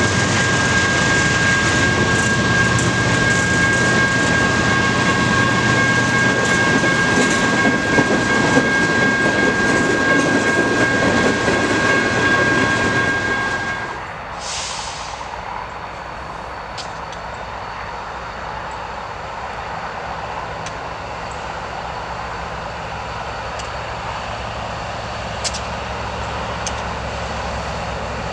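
Freight train of hooded steel coil cars rolling past at close range, wheels running on the rails with a steady high squeal. About 14 seconds in it cuts to a quieter, steady low rumble.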